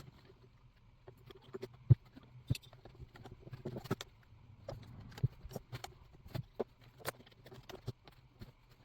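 Irregular clicks and knocks of chainsaw parts being handled and fitted together as the engine and fuel tank are set back into the saw's case half, with a faint steady hum beneath.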